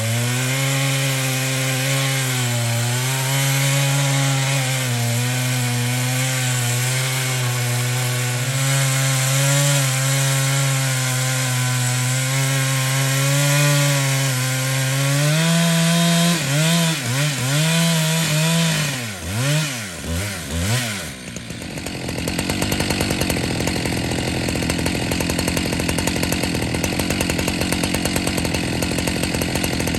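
Husqvarna 365 X-Torq two-stroke chainsaw with a ripping chain, running under load as it rips lengthwise through an oak log in an Alaskan chainsaw mill. From about 16 s its engine speed swings up and down several times. From about 21 s the sound turns into a steady rasping noise with no clear pitch.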